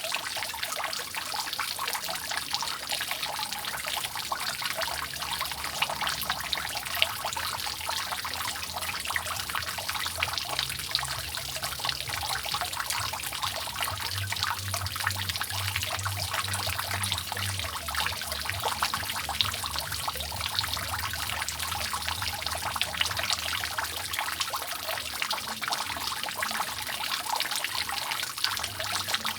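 Water from a roof leak dripping and trickling continuously, with many drops falling in quick, dense succession.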